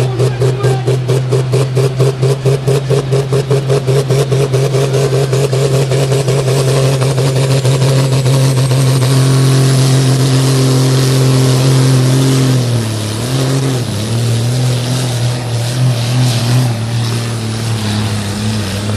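Loud engine of a modified pulling tractor running, beating at about five pulses a second at first, then smoothing into a steady drone; about two-thirds of the way through its pitch dips and settles lower.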